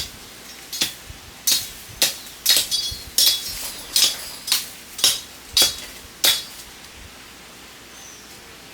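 Hard objects clinking together about a dozen times at an uneven pace, each clink ringing briefly, stopping a little past the middle.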